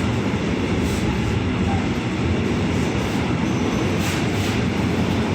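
Train passing through at a steady speed: a continuous rumble and clatter of wheels on rails.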